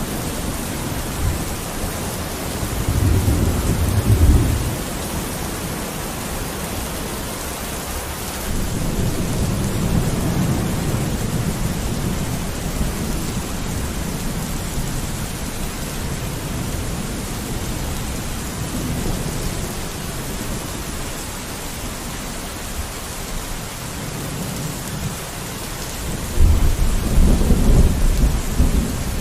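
Steady rain falling on a window, with low rolls of thunder: one about three seconds in, a longer one around ten seconds, and the loudest near the end.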